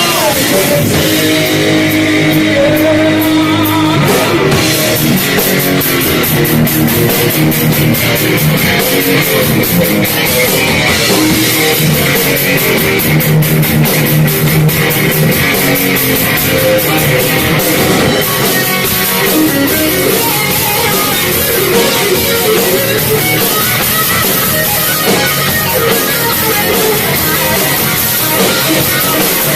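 Live metal band playing an instrumental passage on guitars and drum kit: a held chord in the first few seconds, then the drums come in with a busy, steady beat under the guitars.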